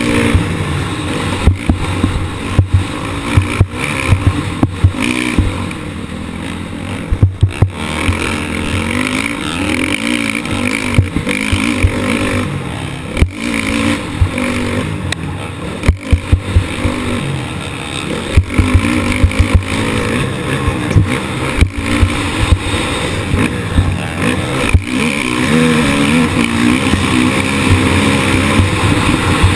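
Motocross motorcycle engine racing, its pitch rising and falling as the throttle is worked through the ride, under a steady rush of noise. Frequent sharp knocks break through it.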